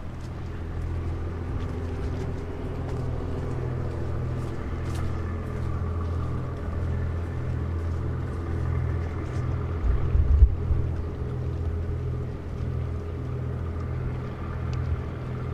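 Diesel engine of a river sand barge running steadily, a low hum with an even throb of about two beats a second. About ten seconds in, a short gust of wind buffets the microphone.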